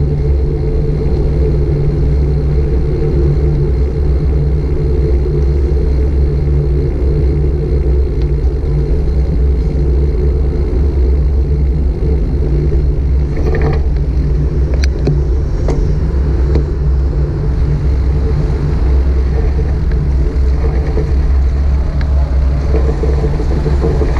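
Steady loud wind rumble buffeting a GoPro Hero 5 Black's microphone while riding a bicycle, mixed with road noise. A few light clicks come about halfway through.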